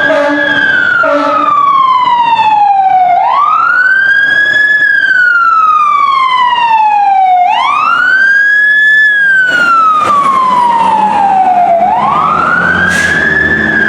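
2020 Pierce Enforcer fire engine's siren on wail, each cycle rising quickly and falling slowly, repeating about every four seconds. A steady air horn blast cuts off about a second in.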